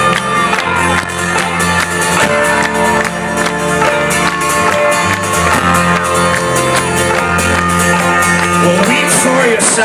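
Live folk-rock band playing at full volume: strummed guitar over a steady bass line, with a held sung melody line and crowd noise mixed in.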